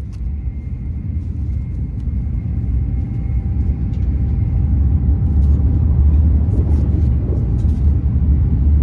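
Steady low rumble of a Shinkansen bullet train running, heard from inside the passenger cabin, growing louder about halfway through. A few faint paper rustles from magazine pages being turned.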